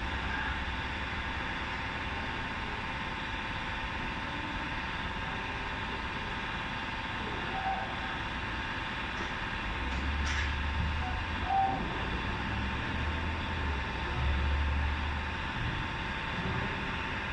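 A steady mechanical hum with several fixed tones, a few faint clicks, and low rumbling swells starting about ten seconds in.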